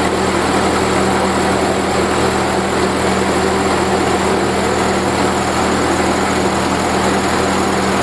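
The 11-horsepower four-cylinder flathead Hercules engine of a 1943 Minneapolis Moline WWII generator set, freshly started and running steadily and smoothly, with the generator not yet switched on.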